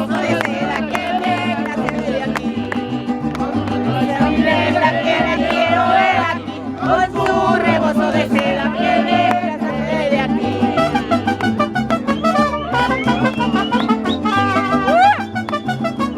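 Mariachi band playing a song: a voice singing over plucked and strummed guitars with a moving bass line.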